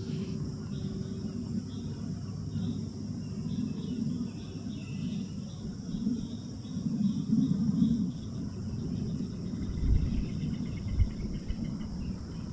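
Steady high chirring of crickets or other insects, over a low uneven rumble that swells a few times.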